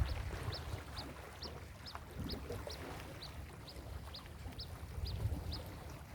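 Ocean surf washing and wind buffeting the microphone, a low rumble that eases after a wave breaks just before and swells again about five seconds in. Over it, a bird gives a series of about a dozen short, high chirps, a little over two a second, stopping near the end.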